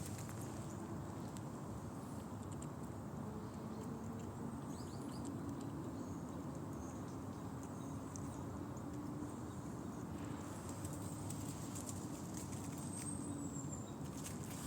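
Outdoor ambience: a steady low rumble with a few faint high bird chirps, and scattered light clicks and scratches that become more frequent after about ten seconds.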